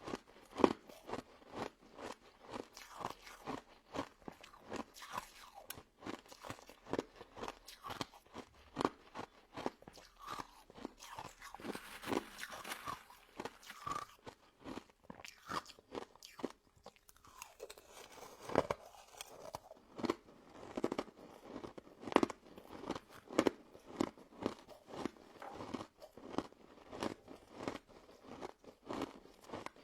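Close-up eating sounds of a crunchy pink crystal ice dessert: a steady run of crisp crunches while it is bitten and chewed, pausing briefly about halfway through.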